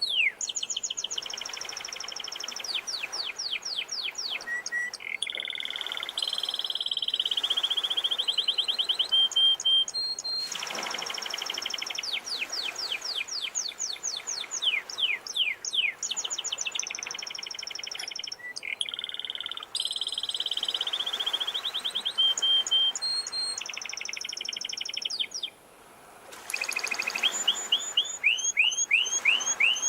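Domestic canary singing a continuous song of fast trills and rolls of repeated high notes, with sea waves washing in and out underneath every few seconds.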